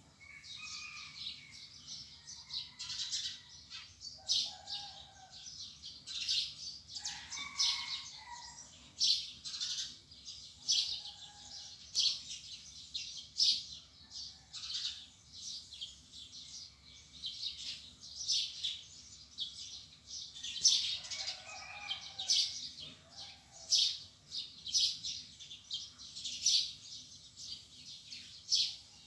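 Small birds chirping in quick, repeated short bursts, with a few lower, longer calls mixed in now and then.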